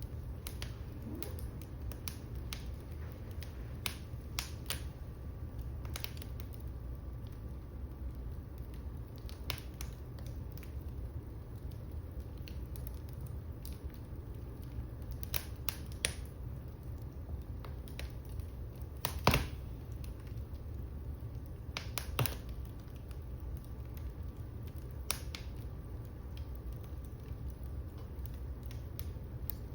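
Fireplace fire crackling, with irregular sharp pops over a steady low rumble; the loudest pop comes about two-thirds of the way through.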